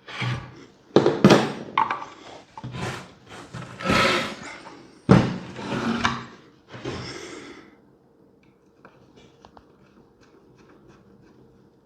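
Wooden knocks and clunks as the bars are worked out of the wooden pump boards of a band organ's bellows, with one loud clunk about five seconds in; after about eight seconds only faint small ticks remain.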